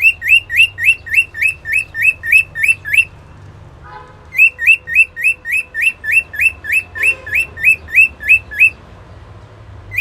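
Cockatiel giving a rapid series of short, identical rising chirps, about five a second, in two long runs with a break of about a second between them.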